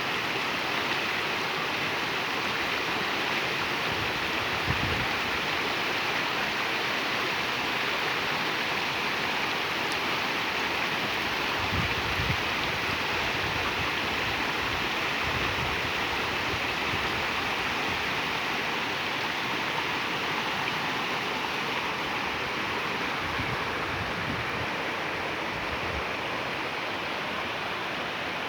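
Waterfall's falling water rushing steadily, with a few brief low rumbles mixed in.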